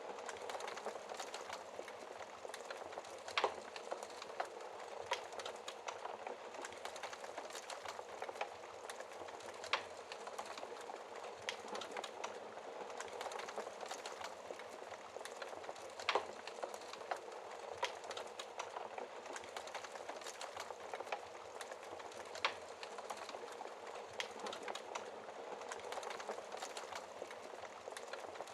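Wood fire crackling in a fireplace: a steady hiss of flames with frequent small snaps, and four louder pops about six seconds apart.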